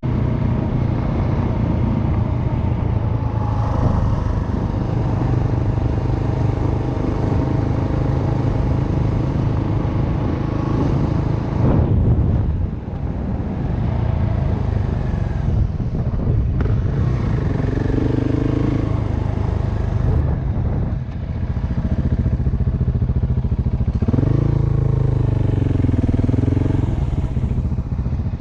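Dirt bike engine running while riding, its pitch rising and falling with throttle changes, with brief drops in level about halfway through and again about three-quarters of the way in.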